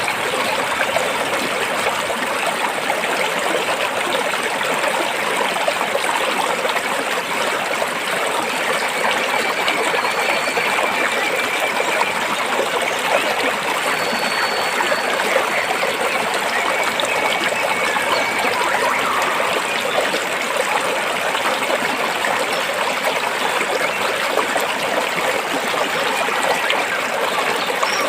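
Stream water flowing between rocks, a steady rushing trickle, with a few faint, thin high tones now and then.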